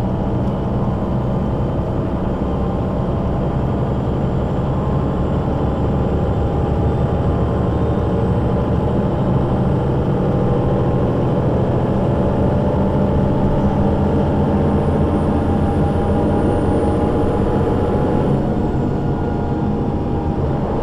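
Solaris Urbino 12 III city bus with a Voith automatic gearbox running under way, a steady engine and gearbox drone whose pitch slowly rises in the middle as it gathers speed, with a faint high whine for a few seconds near the end.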